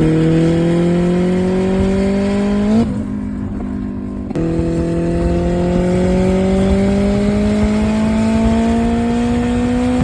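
Turbocharged K24 four-cylinder engine on a wide-open-throttle pull in a high gear, its pitch climbing slowly. About three seconds in it lets off for an upshift, and a second later it pulls again from lower revs, climbing steadily for the rest of the time.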